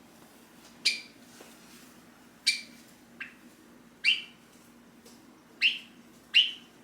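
Java sparrow giving short, sharp, high call notes, about six of them, one every second or so; the fifth and sixth are the loudest. This is its calling for its owner.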